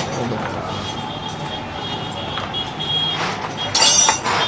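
A high-pitched electronic beep sounding in short broken stretches, with a brief loud noisy burst near the end.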